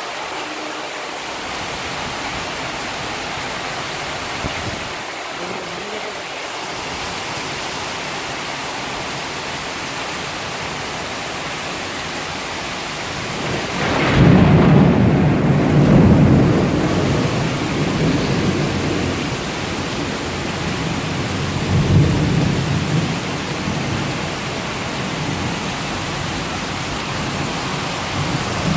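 Heavy rain falling steadily, with a long low rumble of thunder about halfway through and a shorter one a few seconds later.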